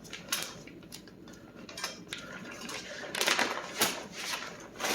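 Loose metal exhaust clamps and hardware clinking and clattering as they are taken out of the box. A few single clinks come first, then a busier clatter about three seconds in.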